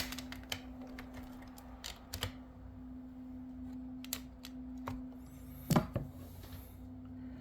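Light plastic clicks and taps as an HO-scale model box car is handled and its front coupler is set against a coupler height gauge, with a sharper clack about two-thirds of the way through. A steady low hum lies underneath.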